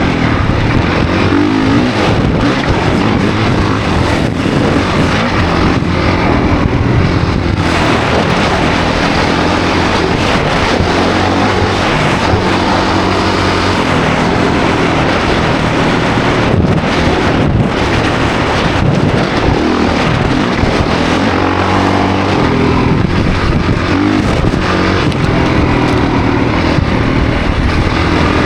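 2024 Honda CRF450 dirt bike's single-cylinder four-stroke engine running hard while being ridden, its revs rising and falling with the throttle, over a rush of wind and riding noise.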